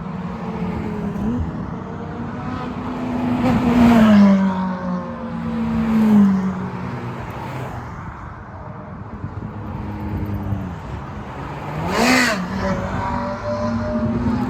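Ferrari sports cars driving past one after another in a parade, their engines running at moderate revs. The loudest passes come about four, six and twelve seconds in, each engine note dropping in pitch as the car goes by.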